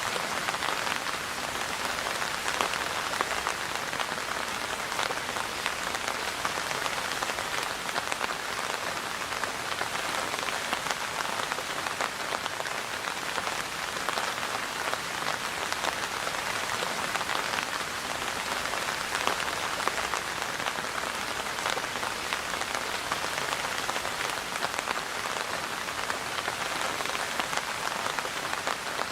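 Steady rain falling, a dense even hiss of drops with many small individual drop patters.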